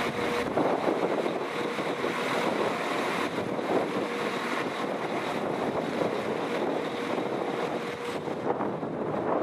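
A train moving through a railway station, a steady rumble of wheel and engine noise.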